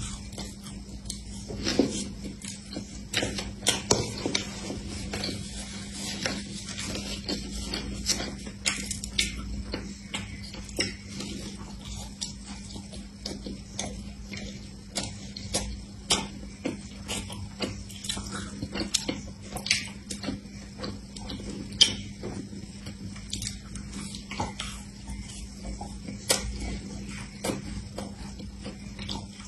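Close-miked crunching and chewing of a crisp sesame-coated fried pastry: irregular crackles and snaps from bites and chewing, with a steady low hum underneath.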